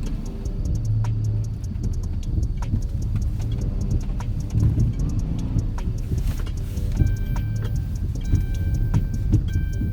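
Car's V6 engine running hard under throttle while drifting in snow, heard from inside the cabin, with music with a ticking beat playing over it.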